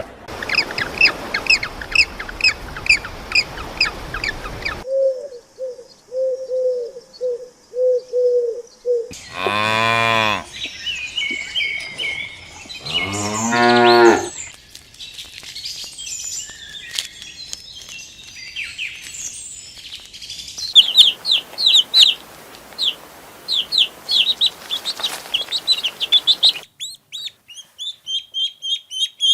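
A string of short animal clips. Birds chirp rapidly, then a run of low repeated calls follows. About nine and thirteen seconds in, a cow moos twice, long and loud. Bird chirping then runs on in several separate stretches.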